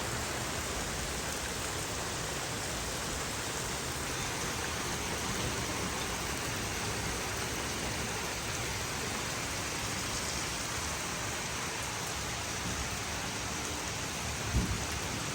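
Heavy rain pouring steadily in a thunderstorm, with thunder rumbling low underneath. There is a short low thud near the end.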